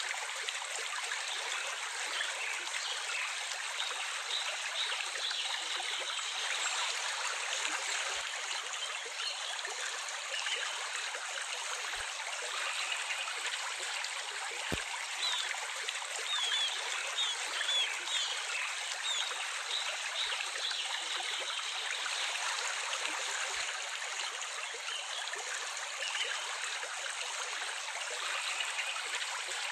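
Water running in a stream with a steady trickling rush, with faint short bird chirps now and then.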